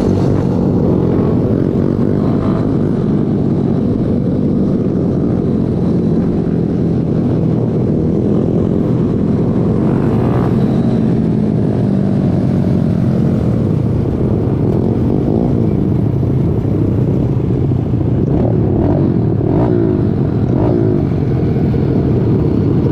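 Pit bike and minibike engines running together, loud and steady, with revs rising and falling a few times in the later part.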